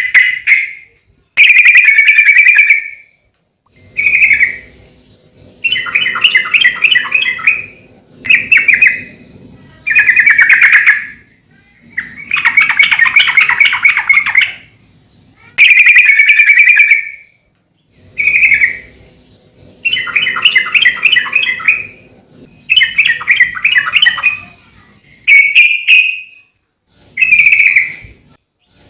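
Yellow-vented bulbul (trucukan) singing energetically, repeating short bubbling song phrases about a dozen times with brief pauses between them.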